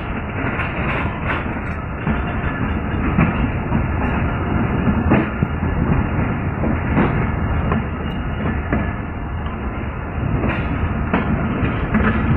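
Passenger train coach running along the track, heard from its open doorway: a steady rumble with irregular clicks of the wheels over rail joints.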